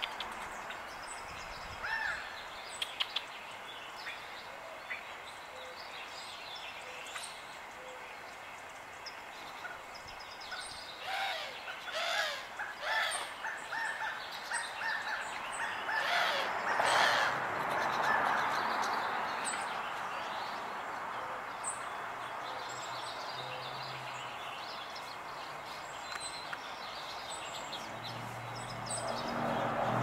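Small wild birds chirping and singing outdoors, busiest around the middle, with short high chirps repeating throughout over a steady background hiss.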